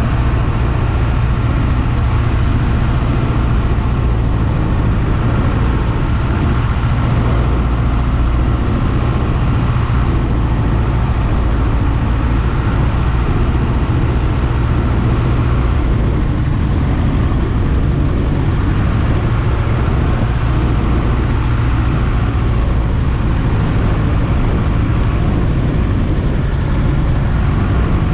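Piper J-3 Cub's small piston engine running steadily at low power during a landing, a loud, even drone.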